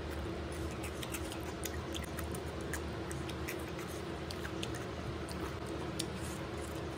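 Close-up chewing with the mouth full while eating rice and chicken by hand, with many short wet clicks and squishes of fingers working the rice on a banana leaf. A steady hum runs underneath.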